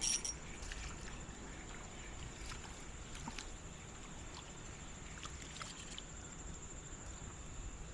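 Quiet creek ambience: a low rush of flowing water, a steady high-pitched insect drone and a few faint clicks.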